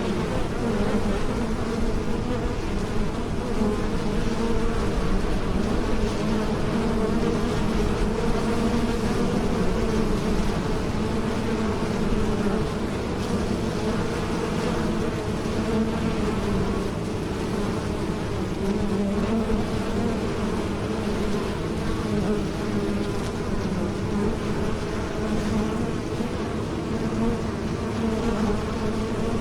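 Honeybees buzzing: a steady, continuous drone of many wingbeats whose pitch wavers slightly.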